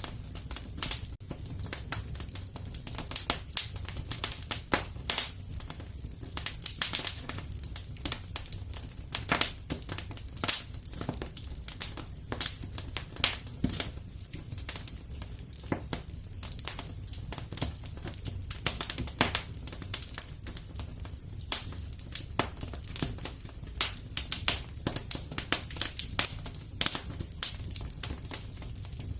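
Fireplace fire crackling: irregular sharp snaps and pops, several a second, over a steady low rumble of the flames.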